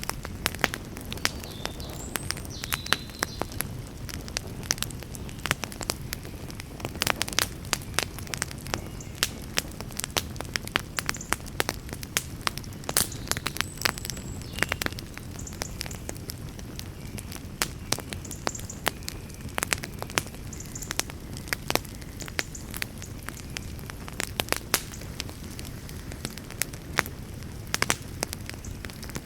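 Campfire crackling: frequent, irregular sharp pops and snaps of burning wood over a steady low rumble.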